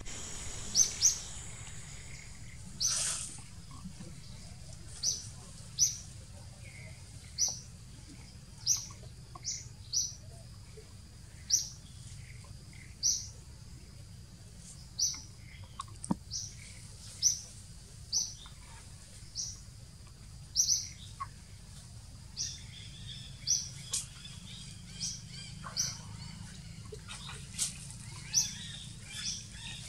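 A bird calling in a string of short, sharp, high chirps, roughly one a second, over steady low background noise.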